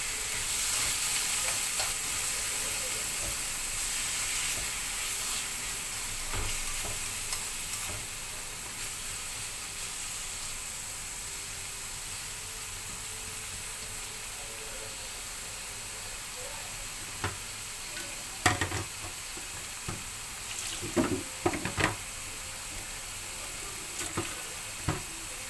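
Chicken pieces sizzling as they fry in oil in a pan, the sizzle easing off after the first several seconds. Toward the end a utensil knocks and scrapes against the pan several times as the chicken is stirred.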